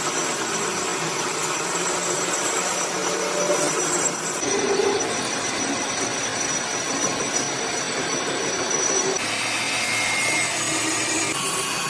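A power tool running against steel, a steady grinding noise with a thin high whine, across several edited clips. The sound changes abruptly about four, nine and eleven seconds in.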